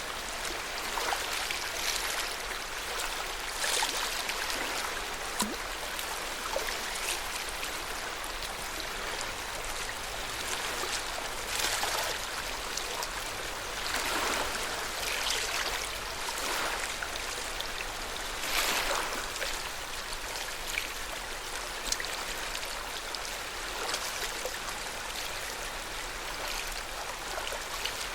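Lake water lapping at the shore: a steady wash with irregular soft splashes every few seconds.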